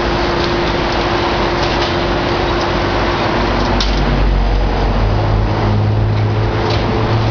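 Heavy demolition excavator working: diesel engine running under load with a steady hydraulic whine, a deeper engine note building about four to five seconds in, and a few light knocks.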